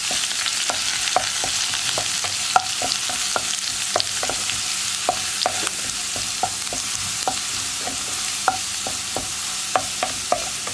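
Crushed ginger, garlic and curry leaves sizzling in hot oil in a nonstick pan, a steady hiss with frequent small sharp pops, as a wooden spatula stirs them.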